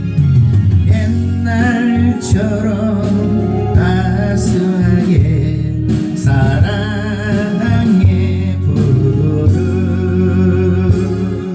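A singer holding sung lines with a wavering vibrato over instrumental backing with a steady bass.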